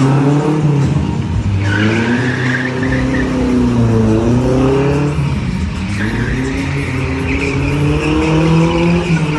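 Car engine revving up and down at high load, with tyres squealing in two stretches, as in a drift or stunt demonstration.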